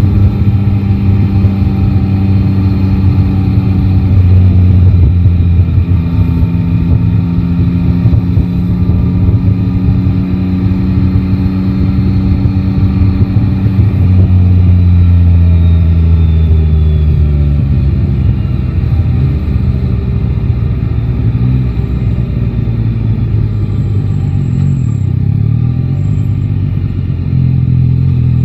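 Yamaha Tracer 9 GT's inline three-cylinder engine under way in the city, heard from the rider's seat. It holds steady revs, eases off and drops in pitch about two-thirds of the way through as the bike slows, runs low and uneven for a while, then picks up again near the end.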